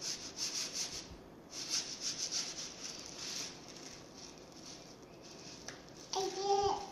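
A child's hands rummaging through a bin of dry rice: a run of soft rustling scrapes for the first few seconds, then fainter. A short child's vocal sound near the end.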